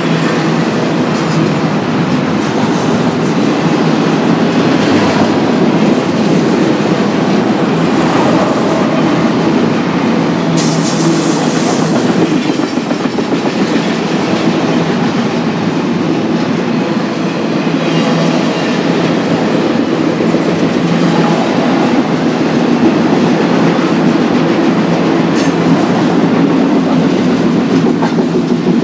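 BNSF intermodal freight train's cars rolling past, steel wheels running steadily on the rails, with a brief higher hiss about ten seconds in.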